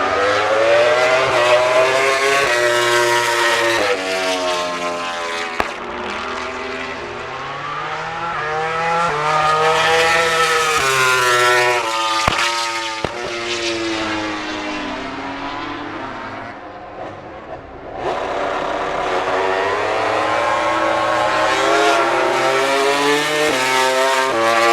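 MotoGP racing motorcycle engines at high revs on track, climbing in pitch through gear changes and falling away as the bikes pass. A sudden cut about three-quarters of the way in brings another bike at full revs, which near the end drops in pitch in quick steps, as with downshifts under braking.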